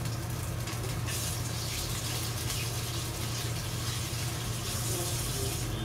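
Chopped red onion, ginger, garlic and chilli sizzling steadily in oil in a stainless steel pot as they are stirred, over a constant low hum.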